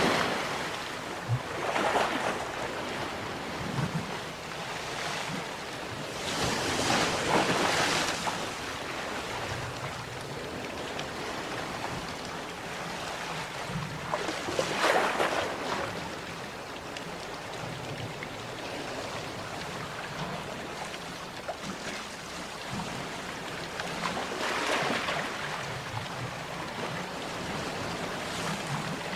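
Ocean waves breaking on the shore, surging now and then over a steady wash of surf, with some wind on the microphone.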